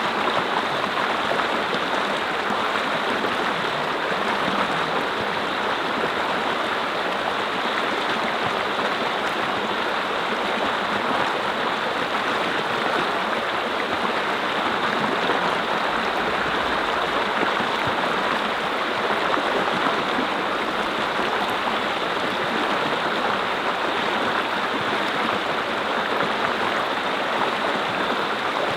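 Mountain stream flowing over rocks: a steady, continuous rush and babble of water.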